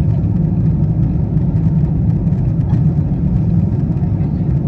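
Steady low rumble of a Boeing 777-200ER cabin in flight, heard from an economy seat: engine and airflow noise during the initial descent.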